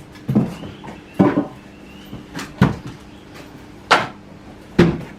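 Split firewood pieces knocking against each other as they are handled: five sharp, separate wooden knocks about a second apart.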